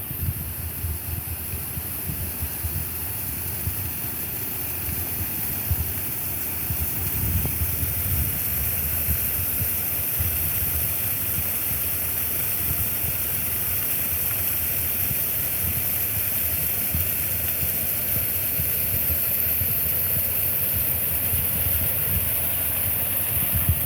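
Waterfall rushing with a steady roar of water, growing gradually louder over the first several seconds and then holding, with a low rumble of wind on the microphone underneath.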